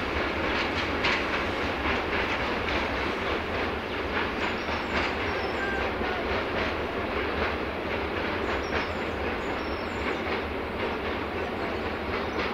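A train running on the line, its wheels clicking irregularly over the rail joints amid a steady rumble.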